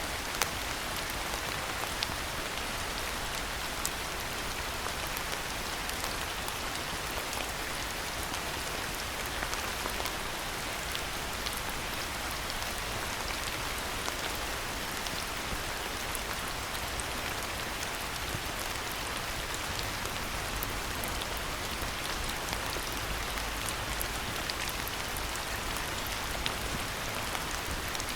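Steady rainfall: an even hiss of rain with scattered individual drops ticking, a few of them sharper and louder than the rest.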